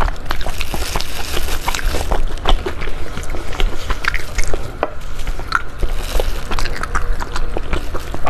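Close-up eating sounds of soup dumplings: wet chewing, smacking and slurping, with many short clicks and smacks. Disposable plastic gloves crinkle and rustle along with it, and the host calls them noisy. A steady low hum runs underneath.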